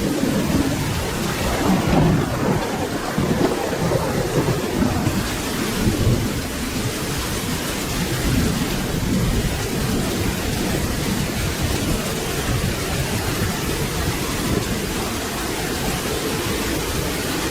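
Steady rain with a low rolling rumble of thunder, strongest in the first few seconds and then easing into a continuous deep grumble under the rain.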